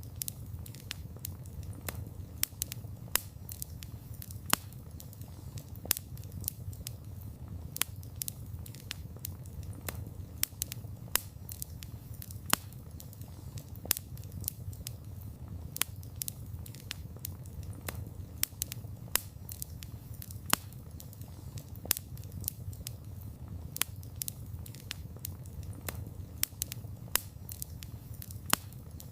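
Campfire of burning wood crackling: frequent sharp, irregular pops and snaps over a steady low rumble of the flames.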